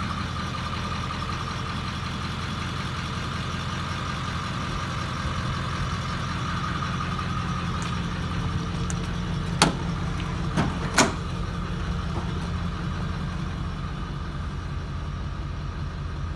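Truck engine idling steadily. Three sharp metallic clicks come about ten seconds in, like the latch of a service-body compartment door being worked.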